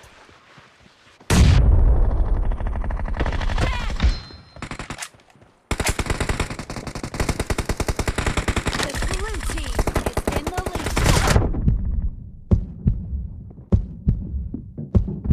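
Video game gunfire: long bursts of rapid automatic fire start about a second in, break off briefly, resume in a second long burst, then give way to scattered single shots near the end.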